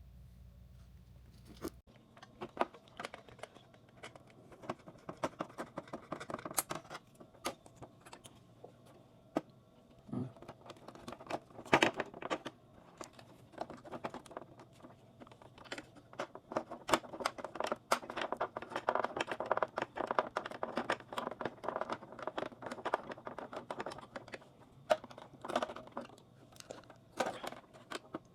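Hands working on motorcycle front-end parts: an irregular run of clicks, taps and scraping of plastic and metal with some rustling, as the old headlight assembly is taken apart. It starts about two seconds in after a low steady hum.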